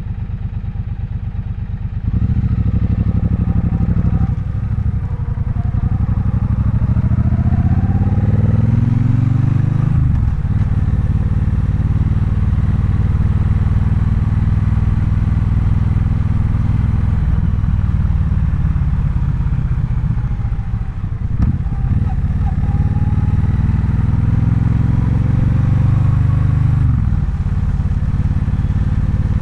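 Triumph Bonneville Bobber's 1200 cc parallel-twin engine, quieter at first, then pulling away about two seconds in and accelerating through the gears with rising pitch and short breaks at the shifts. It eases off and slows around twenty seconds in, then accelerates again near the end.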